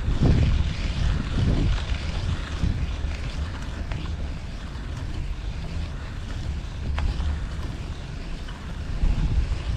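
Wind buffeting the microphone of a camera on a moving bicycle, coming in gusty low rumbles that are strongest at the start and again near the end, over a steady background of street noise. Two faint ticks are heard in the middle.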